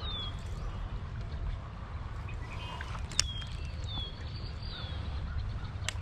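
A bird calling with short falling whistled notes, repeated several times, over a steady low rumble of outdoor ambience. Two sharp clicks sound about three seconds in and near the end.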